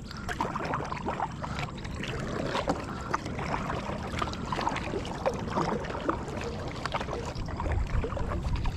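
Water splashing and lapping around a kayak in irregular small splashes, as it is paddled along a river.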